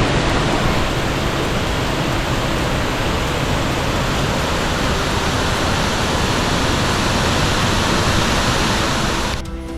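Loud, steady rush of a waterfall close by, with no break in it; it cuts off suddenly near the end.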